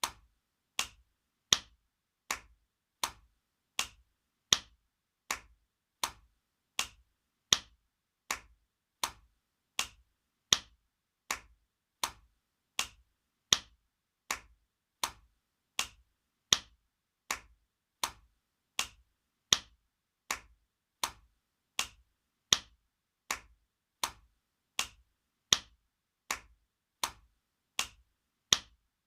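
Spanking sound effect: a sharp hand slap repeated at a steady pace, about three slaps every two seconds, some louder than others.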